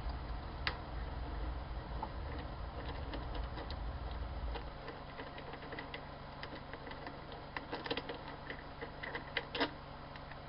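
A machine stops at the start, and its low rumble dies away about five seconds in, leaving a steady low hum. Throughout there are small sharp clicks and taps, like metal parts being handled, most of them and the loudest near the end.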